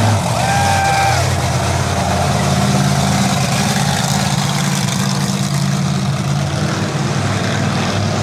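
A monster truck's big engine running steadily at a high idle, a loud low hum. Near the start a short high steady tone sounds for under a second.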